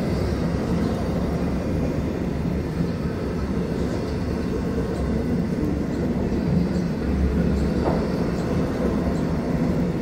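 Freight train cars rolling past on the rails, a steady low rumble as the train gathers speed.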